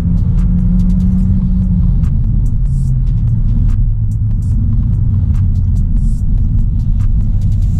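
Audi A3 1.4 TFSI's turbocharged four-cylinder petrol engine and road noise heard from inside the cabin while driving: a steady low rumble. The engine's tone drops to a lower pitch partway through, with faint scattered clicks over it.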